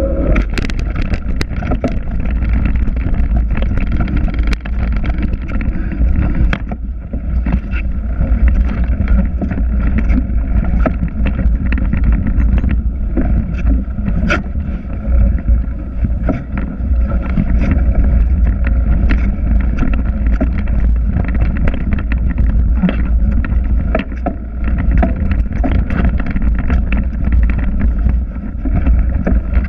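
Riding a Trek X-Caliber 8 mountain bike: wind buffeting the action camera's microphone as a heavy low rumble, with frequent small clicks and rattles from the bike.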